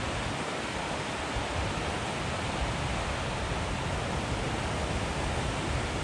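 Goðafoss waterfall rushing, a steady even wash of falling water.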